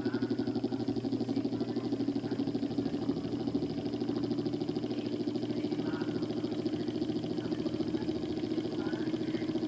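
Mondial electric fan driven by an Arno SL40 motor, running steadily with a low motor hum and a fast, even flutter.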